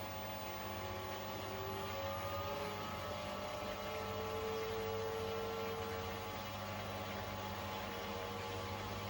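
Beko WTK104121A washing machine running, its motor whine slowly rising in pitch over a steady low hum as the drum picks up speed in spin.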